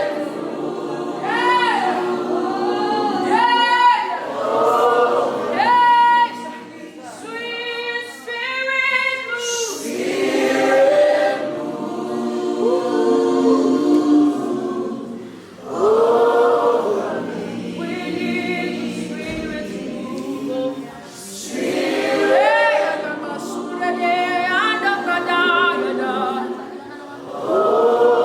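A group of voices singing a worship song in slow phrases, with held notes that waver in vibrato and short breaks between phrases.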